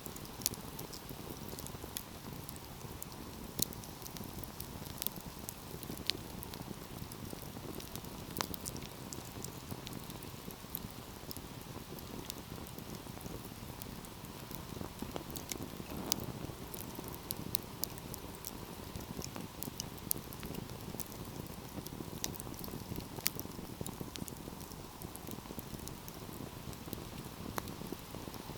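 Wood fire burning in a fireplace: a steady low rush of flame with sharp crackles and pops scattered irregularly throughout, a few of them louder snaps.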